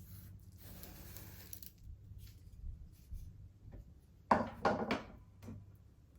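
Kitchen handling noises: a soft rustle, then a quick cluster of knocks and clatters about four seconds in, the loudest part.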